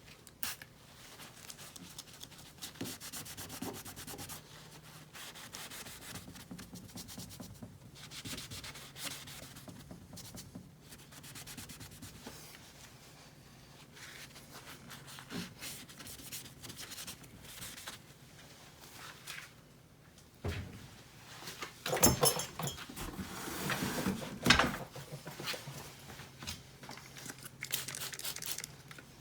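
A cloth rag rubbing back and forth on a truck's painted body panel, wiping off leftover badge adhesive residue: irregular wiping strokes, loudest and busiest about three-quarters of the way through.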